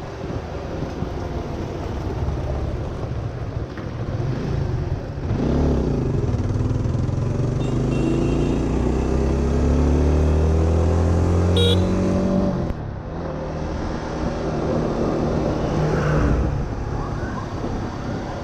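Honda Winner 150 single-cylinder motorcycle engine running on the road, with wind on the microphone. About five seconds in, the engine note climbs steadily as the bike accelerates, then drops suddenly about twelve seconds in.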